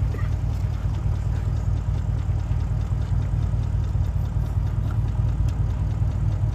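Vehicle engine idling close by: a steady low rumble.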